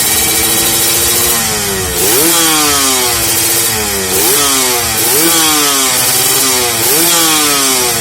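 Kawasaki Ninja 150 RR's two-stroke single-cylinder engine running through an MVP aftermarket exhaust, revved in about four quick throttle blips. Each blip rises sharply in pitch and falls back toward idle.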